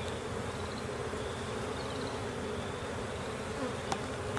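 Carniolan honey bees buzzing steadily around an open hive, with one light tap near the end.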